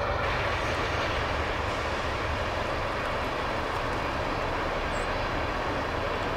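Freight train rolling past: a steady rumble of boxcars and tank cars on the rails.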